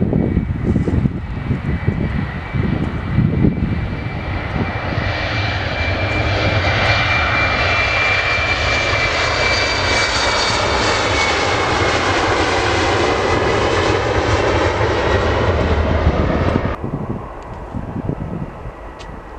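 Airliner's engines passing close by: a rushing roar that builds for a few seconds with a high whine slowly bending in pitch, then cuts off suddenly near the end. Wind buffets the microphone at the start.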